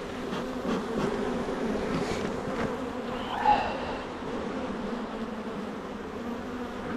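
Honeybees buzzing in a steady hum around an open hive during a frame inspection, with one briefly louder buzz about halfway through.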